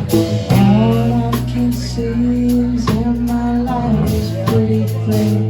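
Live rock band playing an instrumental passage: electric bass holding long low notes under regular drum hits and guitar, with a melodic line over the top.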